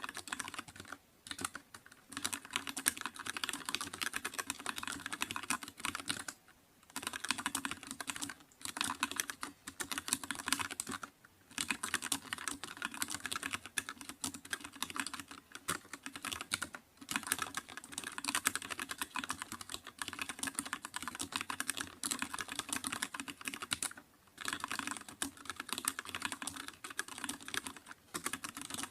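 Typing on a computer keyboard: fast, steady runs of keystroke clicks, broken by a few short pauses.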